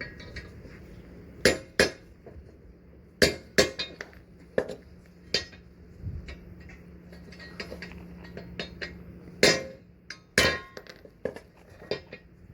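Hammer blows on metal, irregular and often in pairs with lighter taps between, as a stubborn old bushing sleeve is driven out of a leaf spring eye.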